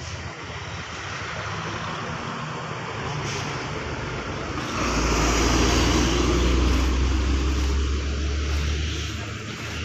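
Road traffic: a motor vehicle passes close by, its engine a deep low rumble that swells about halfway in and fades near the end.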